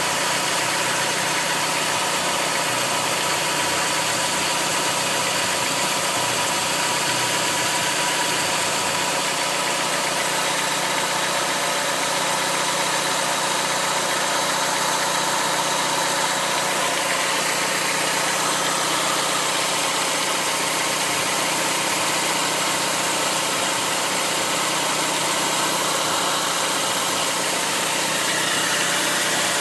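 Chrysler PT Cruiser engine idling steadily.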